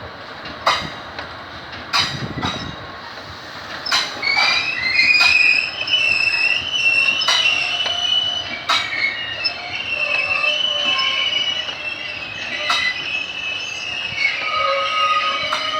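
A train passing with its wheels squealing: several high, shifting screeches start about four seconds in and overlap until the end, with sharp clacks from the wheels over rail joints here and there.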